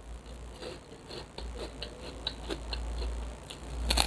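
A run of faint small clicks and taps from eating and handling food, then a brief loud crinkle near the end.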